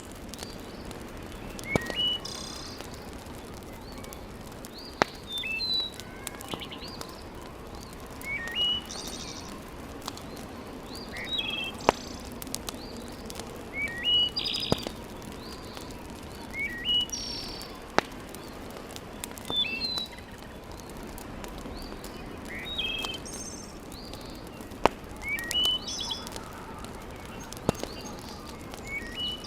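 A bird repeats a short phrase of rising chirps every two to three seconds, over a wood fire in a fireplace crackling with a steady hiss and a few sharp pops.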